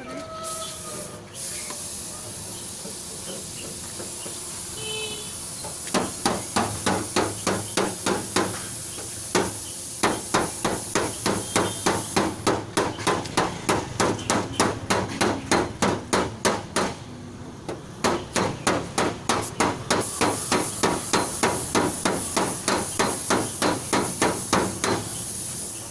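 Rapid, even hammering on sheet metal, about three to four blows a second, starting about six seconds in and pausing briefly twice: a car body panel being beaten out in dent repair.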